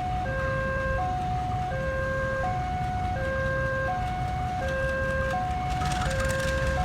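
Railway level-crossing warning alarm sounding a two-note electronic hi-lo tone, the higher and lower notes alternating about every three quarters of a second. It plays over a steady low rumble, with a short hiss about six seconds in.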